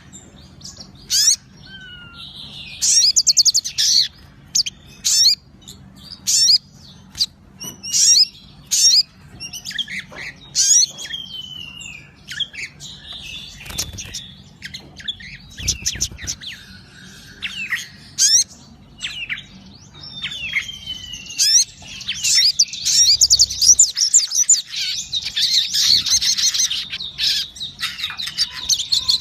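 A sogon songbird singing in an active, full song: short sharp chirps and sweeping whistled notes with gaps between them, building after about twenty seconds into a dense, continuous run of rapid chattering phrases.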